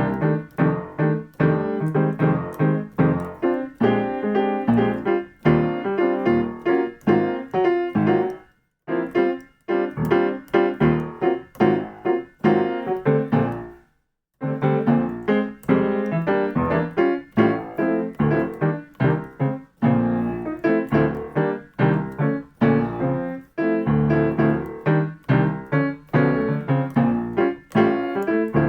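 Piano playing jazz comping rhythm patterns in short, repeated chord stabs, practised as backing patterns. It breaks off briefly twice, about nine and fourteen seconds in.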